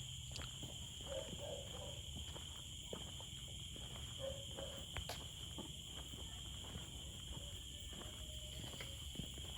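Steady high-pitched insect buzzing, with irregular footsteps and a few short low animal calls.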